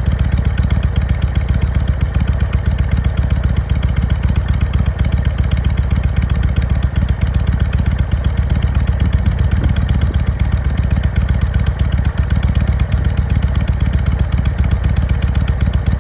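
Harley-Davidson Sportster 883 air-cooled V-twin, fitted with a Mikuni HSR42 carburettor, idling steadily through its exhaust with no revving.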